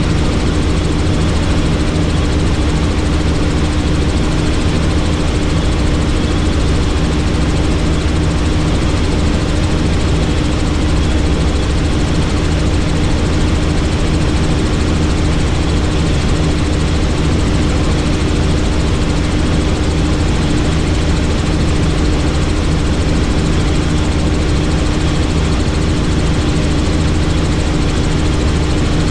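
Helicopter engine and rotor noise heard from the aircraft in flight, a loud steady drone with a low hum that holds even throughout.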